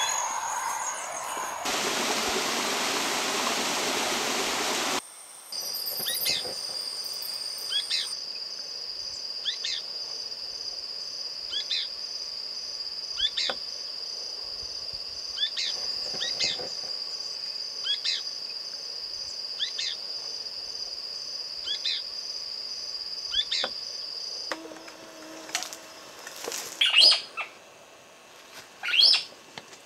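Forest birds calling: one bird repeats a short call about every second and a half over a steady high-pitched whine, and louder calls come near the end. A few seconds of rushing noise sit near the start.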